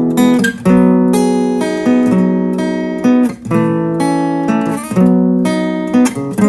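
Background music: acoustic guitar strumming chords that change about once a second.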